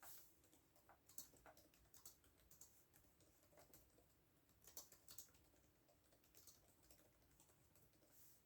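Faint computer keyboard typing: irregular keystrokes in short runs, the loudest clusters about a second in and near the middle.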